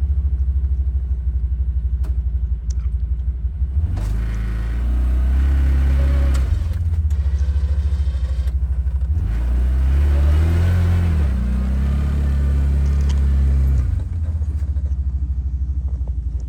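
Side-by-side ATV engine running under load while plowing deep snow, its revs rising and falling twice and dropping back near the end.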